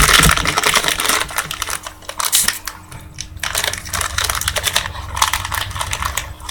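Trading card pack wrapper being torn open and crinkled, with the cards inside being handled: a dense, continuous run of small crackles and clicks.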